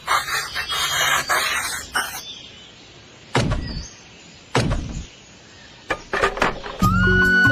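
Scraping for about two seconds, then a few separate knocks from hands-on work with miniature cement bricks. Music with a flute melody comes in near the end.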